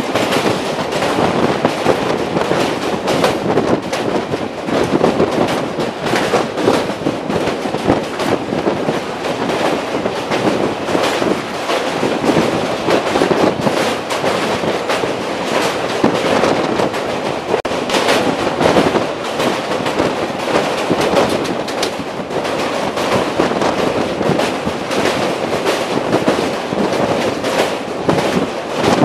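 Passenger train crossing a steel girder bridge, heard from aboard: a loud, continuous rattling clatter of wheels and steelwork with many sharp clicks.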